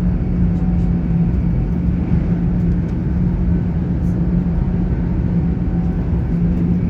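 Steady running noise inside a GWR Class 800 IET carriage on the move: a low rumble from the wheels and track with a constant hum underneath.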